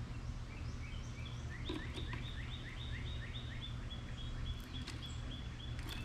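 A songbird singing a long run of evenly repeated rising notes, about four a second, faint at first and clear from about a second and a half in. A steady low hum sits underneath.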